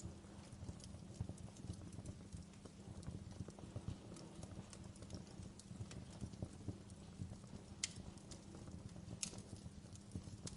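Wood fire crackling in a fireplace: a dense low crackle under scattered sharp pops, with two louder pops about eight and nine seconds in.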